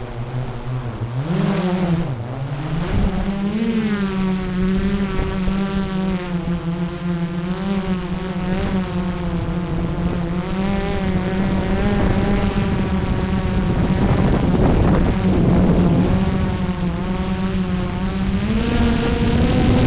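DJI Mavic 3 Pro quadcopter's propellers buzzing in flight. The pitch climbs and wavers over the first few seconds, holds steady, then rises again near the end as the motors speed up.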